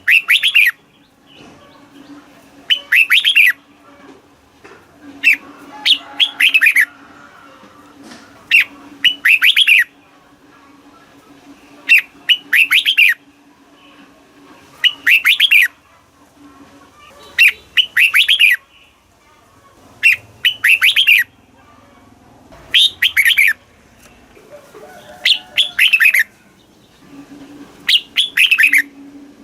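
Red-whiskered bulbul singing: short, loud song phrases of quick downward-sweeping notes, repeated about every three seconds, over a faint low hum.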